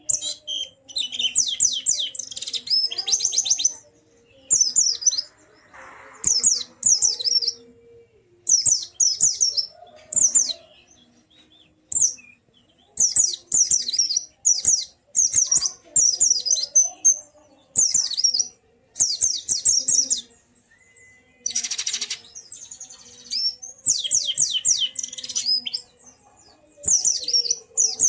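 White-eye (pleci) singing in quick bursts of rapid, high, falling chirps, each about a second long, repeated with short pauses between them. A brief rustling noise comes about two-thirds of the way through.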